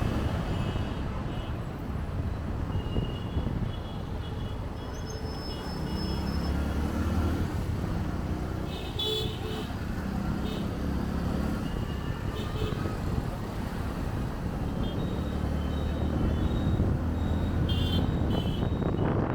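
City traffic heard from a moving motorbike: steady engine and road noise, with short vehicle horn toots breaking in many times.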